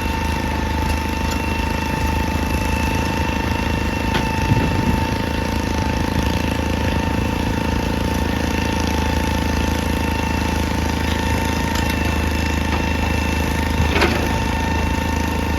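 Excavator's diesel engine running steadily with a constant high whine. Two sharp knocks stand out, one about four seconds in and one near the end.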